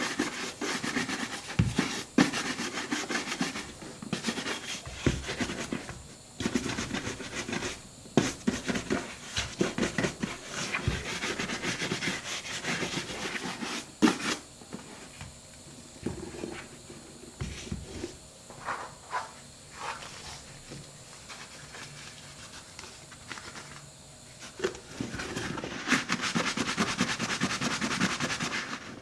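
Horsehair brush stroked quickly back and forth over a leather boot, a dense run of brushing strokes that thins to scattered strokes about halfway through. Near the end a steadier, louder rubbing begins.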